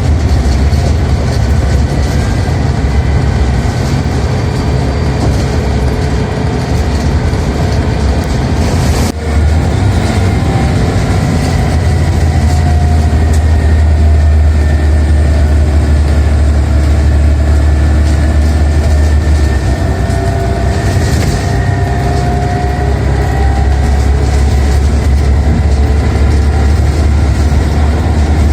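Scania Omnicity bus engine and ZF automatic gearbox under way, heard from inside the bus: a loud, steady low drone with whining tones that slowly rise and fall. There is a brief drop in level about nine seconds in.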